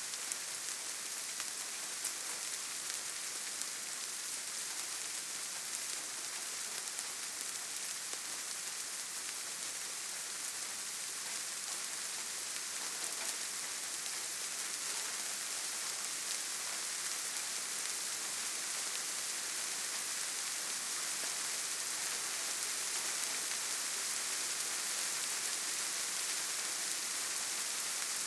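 Steady rain falling, a dense even hiss of rainfall with fine droplet patter, getting slightly louder toward the end.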